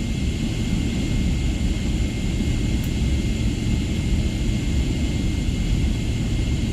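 Steady airliner cabin noise after landing: a low rumble under an even hiss, with a thin, steady high whine.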